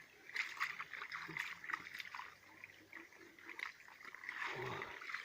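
A wet car floor mat being washed by hand with a rag: uneven wet rubbing and scrubbing strokes with some water sloshing.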